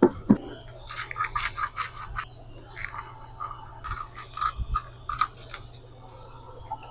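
Rapid scratchy scraping strokes from food preparation, in two runs of about a second and about two and a half seconds. Two short knocks come right at the start.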